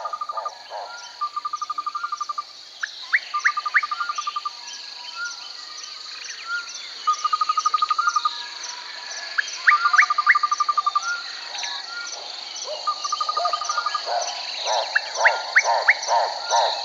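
Nature ambience: a steady high insect drone runs under repeated short trilled calls and quick rising chirps. A frog chorus croaks in a fast pulsing run at the start and again in the last couple of seconds.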